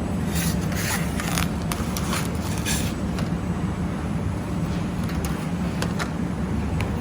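Laser welding machine working on thin carbon steel: a steady low hum, with short hissing crackles clustered in the first three seconds and a few more later on.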